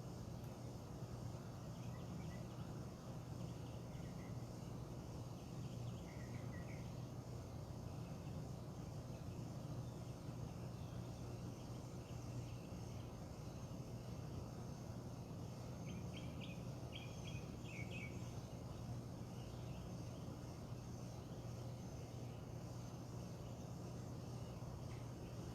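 Outdoor morning ambience: a steady low hum with a faint, even insect trill, and a few brief bird chirps, including a quick run of chirps about two-thirds of the way through.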